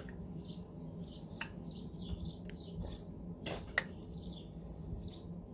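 Small birds chirping repeatedly, with a few sharp metallic clicks from a screwdriver working the screws of a Honda CB750's points plate. The loudest are two clicks close together about three and a half seconds in.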